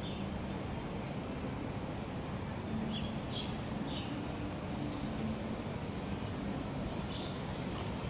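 Small birds chirping in short, scattered calls over a steady hum of outdoor background noise.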